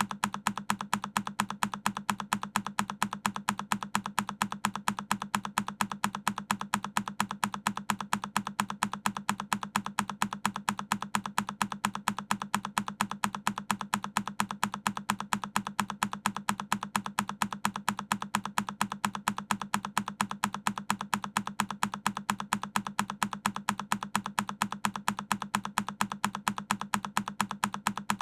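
A single key on a Keychron K10 mechanical keyboard clicking over and over, the same key-press sound repeating at an even, quick pace.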